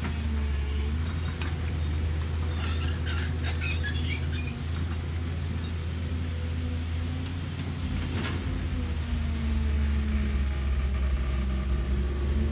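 Caterpillar excavator's diesel engine running with a steady low drone that rises and falls slightly. A brief high-pitched metallic squeal and clatter comes a couple of seconds in, and a single sharp knock a few seconds before the end.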